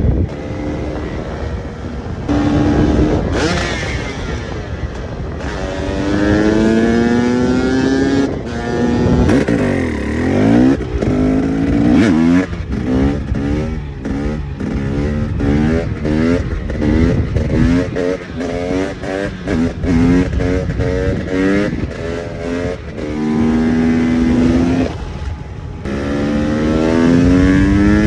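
KTM EXC 300's single-cylinder two-stroke engine accelerating hard through the gears, its pitch climbing again and again and dropping back at each shift. About twelve seconds in there is a run of short, quick throttle blips.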